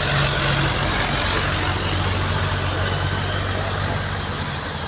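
Hino truck's diesel engine running steadily with a low, even drone, over a constant hiss of road and wind noise.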